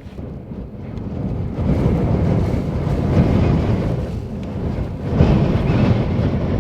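Gale-force wind buffeting the microphone, a deep rushing rumble that swells in two strong gusts, one after about two seconds and another after about five.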